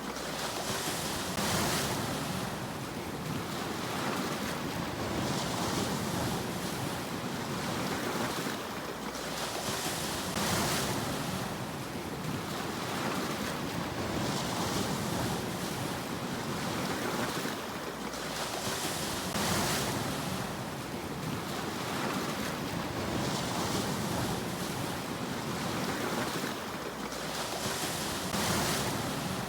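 Sea waves breaking: a hissing surge of surf about every four to five seconds over a steady rush of water.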